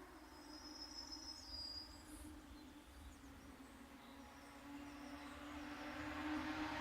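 Honda CBF600 motorcycle with an aftermarket Akrapovic-style exhaust, its engine faint at first and growing steadily louder from about two thirds of the way through as it approaches. A faint high chirp sounds about half a second in.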